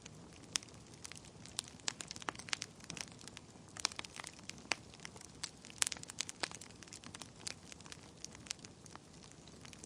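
Wood fire burning in a fireplace: steady low hiss with frequent irregular sharp crackles and pops, a cluster of louder pops around four and six seconds in.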